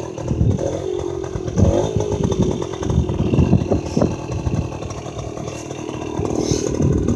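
1971 Suzuki MT50 Trailhopper's small two-stroke single-cylinder engine idling just after a cold start, its exhaust note steady with slight wavers in pitch.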